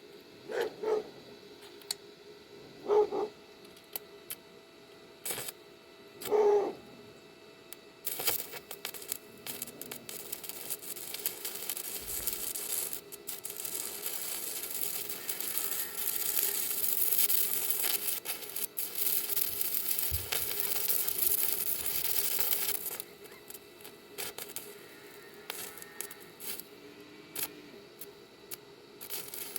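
Electric arc welding: the arc crackles and sizzles steadily as a bead is run on a steel gate, for about fifteen seconds starting about a quarter of the way in, then stops and leaves only scattered ticks.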